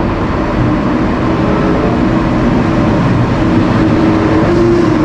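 High-speed train running past a station platform: a loud, steady rushing noise.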